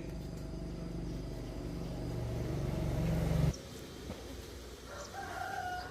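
A motor runs with a steady low hum, growing louder, then cuts off suddenly about three and a half seconds in. Near the end an animal gives a pitched call that bends in pitch.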